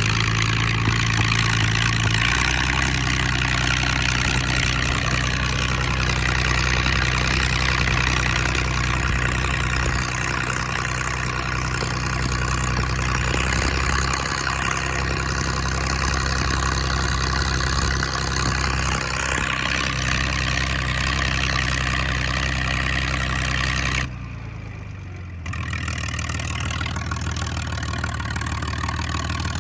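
1966 John Deere 4010 LP's propane-fuelled six-cylinder engine running loud through a straight pipe with no muffler, its speed shifting a few times. About 24 s in, the sound briefly drops away and then returns.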